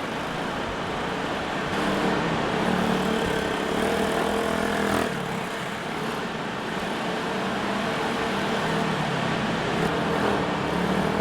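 Small motorcycle engines running and revving on a track, their pitch rising and falling, with one clear rise about four to five seconds in.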